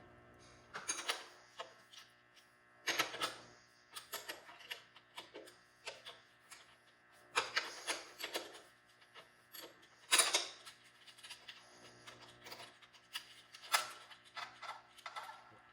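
Hand tools working the exhaust clamp nuts: short runs of ratchet-wrench clicking with metal clinks and scrapes, several bursts a few seconds apart over a faint steady hum.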